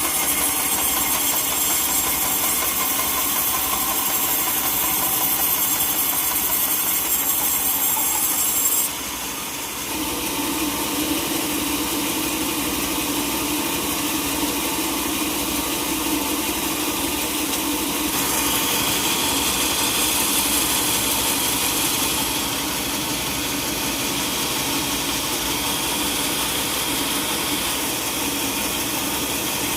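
Sawmill machinery running: a steady engine drone mixed with saw noise. The sound changes abruptly about nine seconds in, as a high hiss stops and a lower drone takes over.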